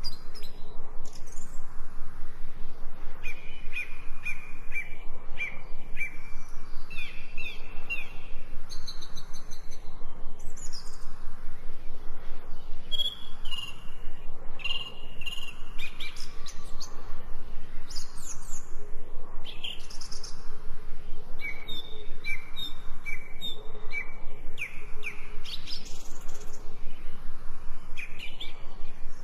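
Several birds chirping and singing, with repeated short chirps and trills, over a steady soft hiss.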